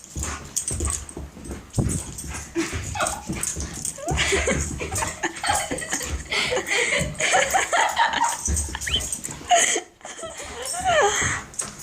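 Excited dog whining and yipping in short, wavering cries, with scattered thumps and scuffling.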